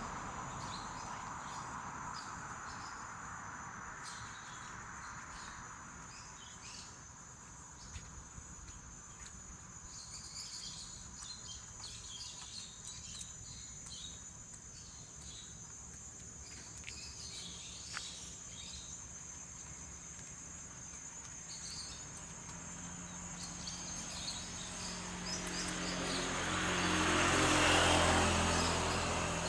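Birds chirping in short scattered calls over a steady high insect drone. A motor vehicle fades away early on, and another passes near the end, loudest a couple of seconds before the close.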